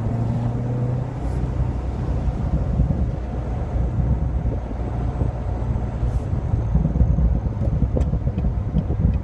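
Chevrolet C7 Corvette Stingray's 6.2-litre V8 through its dual-mode exhaust, running at low speed with the top down: a steady low exhaust rumble with a few crackles, the engine still cold.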